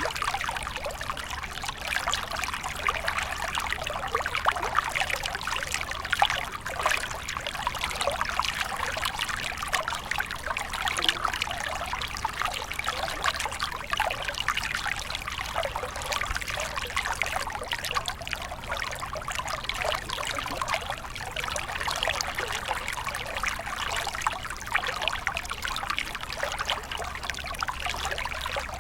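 A small stream of water flowing and trickling, a steady babble of many tiny splashes and gurgles.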